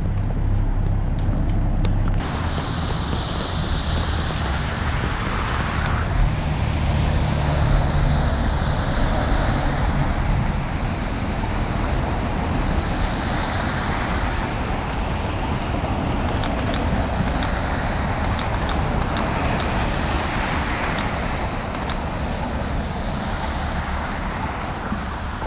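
City street traffic: motor vehicles passing with a steady mix of engine hum and tyre noise, and a few faint short clicks partway through.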